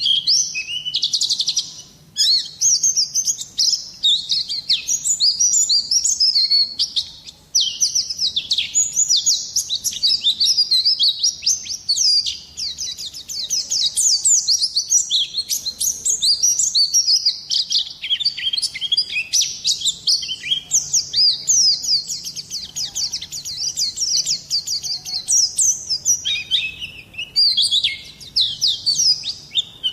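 White-eye (pleci) singing a fast, continuous twittering song of high, rapid sweeping notes, with brief pauses about two and seven seconds in.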